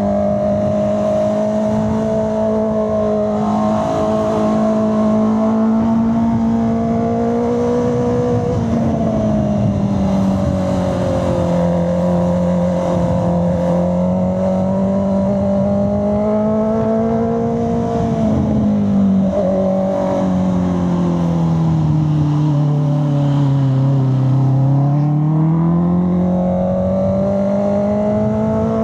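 Honda CB650R's inline-four engine and exhaust under way, the note held fairly steady and rising and falling gently as the throttle is worked through bends. Near the middle the note shifts abruptly, and later it sinks to a deeper pitch before climbing again.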